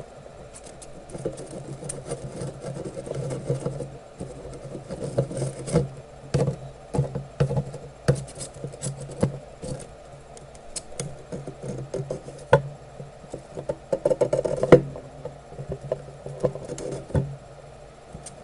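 Soldering iron and desoldering braid rubbing and tapping on a circuit board's pads while wicking up solder: irregular small clicks and scratches over a steady low hum, with the sharpest knock about fifteen seconds in.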